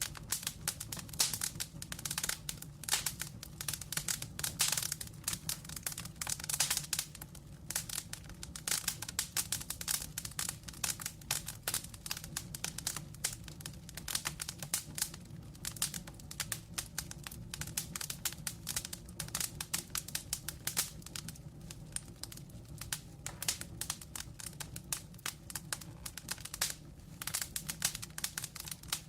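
Wood fire in a fireplace crackling, with dense irregular pops and snaps over a steady low rumble of the flames.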